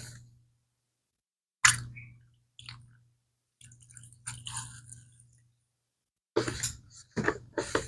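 Damp cloth wiping and rubbing a vintage leather Swiss Army bag while it is handled: irregular squishing and rubbing sounds, with a sharp knock about two seconds in and busier handling near the end.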